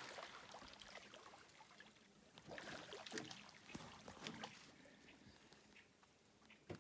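Near silence with faint water sounds and a few light clicks and knocks.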